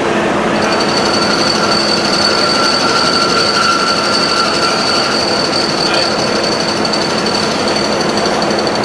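A milling machine running steadily under load, a loud even noise with a high steady whine that comes in about half a second in and holds, and a lower whine for the first few seconds.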